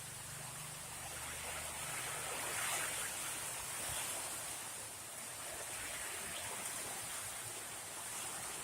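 Heavy rain pouring steadily, an even rushing hiss; a faint low hum fades out in the first second or two.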